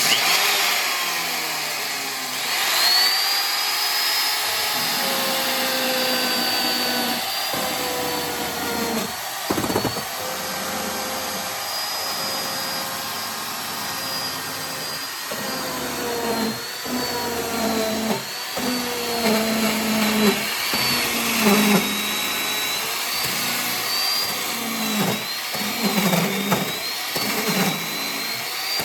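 Electric motor of the restored wood mortising machine running with a whine. From about halfway on, its pitch sags and recovers again and again, as when the machine is put under load.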